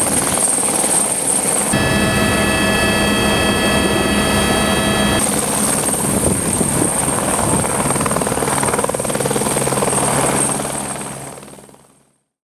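Police helicopter running, a steady rotor and turbine noise with a high turbine whine; for a few seconds from about two seconds in, a different set of steady whining tones. The sound fades out near the end.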